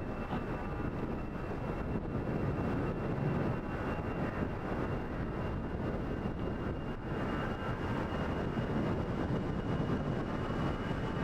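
Jet airliner engines running: a steady rushing noise with a high, thin turbine whine that creeps slightly higher in pitch.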